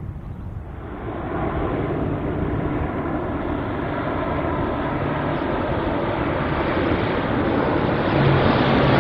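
Lockheed C-130 Hercules four-engine turboprop transport flying low, its propellers and engines droning and growing steadily louder as it approaches.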